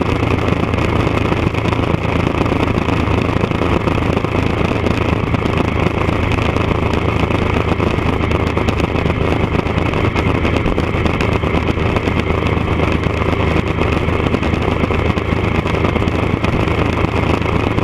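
Triumph Daytona 955i's fuel-injected three-cylinder engine running steadily at a constant speed through an aftermarket D&D exhaust, with no revving.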